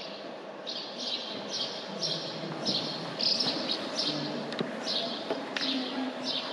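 A small bird chirping over and over, short high chirps about twice a second, with a few faint sharp clicks among them.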